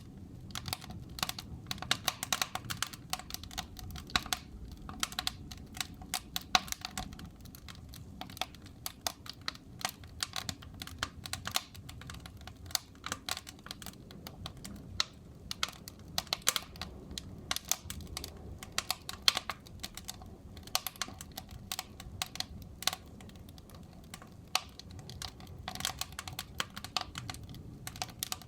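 Fireplace fire crackling: irregular sharp pops and snaps at uneven intervals over a steady low rumble of the flames.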